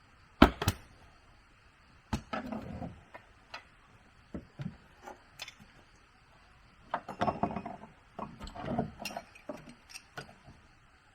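Irregular sharp knocks and clatters from objects being handled, the two loudest about half a second in, with busier clusters about two seconds in and again from about seven to nine seconds.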